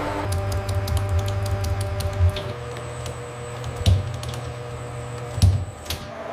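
Processing-line machinery: a steady low hum with a tone that stops about two and a half seconds in, under rapid irregular clicking and three louder knocks.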